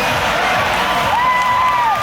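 Crowd cheering and shouting, with music playing underneath. About a second in, one long high call rises above the noise and falls off just before the end.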